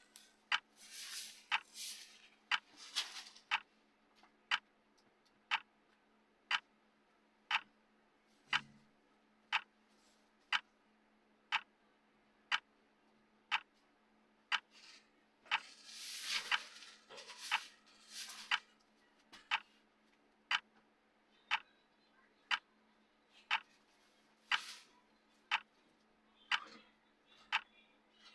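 Clock ticking steadily, one sharp tick about every second, as the sound track of a countdown timer. A few soft hissing noises come between the ticks, the longest about halfway through.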